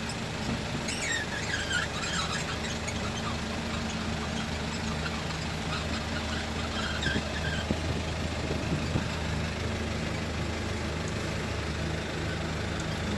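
Dump truck's diesel engine running steadily, with a few short high squeaks about a second in and again near the middle.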